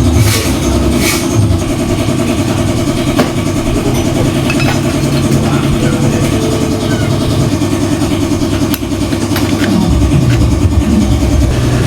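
A steady running engine, with a few sharp clicks over it.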